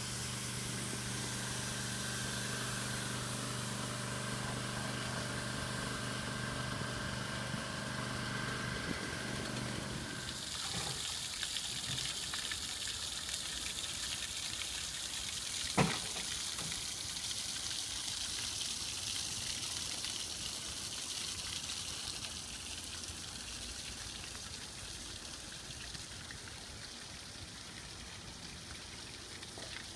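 A motor hums steadily over running water for about ten seconds, then cuts out. After that the steady hiss of water falling in a rock waterfall goes on alone, with one sharp click about halfway through.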